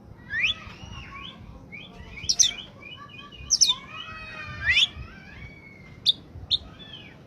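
Oriental magpie-robin (kacer) singing in full voice: loud rising whistled phrases mixed with chattering notes, then a few short, sharp high notes near the end.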